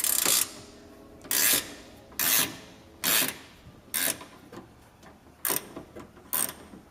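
Hand ratchet wrench clicking in a run of short strokes, about one a second, loosening a fastener at a car battery.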